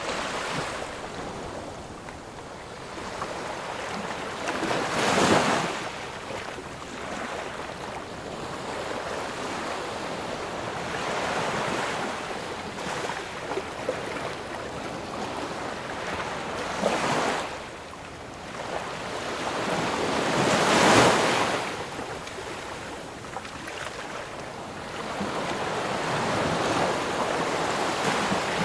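Ocean waves washing onto a shore in a steady rush of surf, with a wave breaking loudly about five seconds in, another near seventeen seconds, and the loudest near twenty-one seconds.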